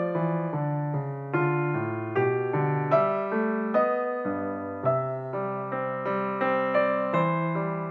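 Instrumental background music on a piano-voiced keyboard: a melody of struck notes, a new one every third of a second or so, over held low notes.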